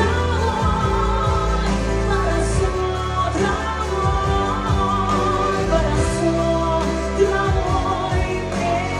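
A song: a voice singing a melody over instrumental backing.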